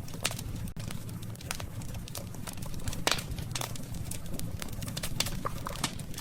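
Wood campfire crackling, with frequent sharp pops and snaps, the loudest about three seconds in, over a steady low rumble of the burning fire.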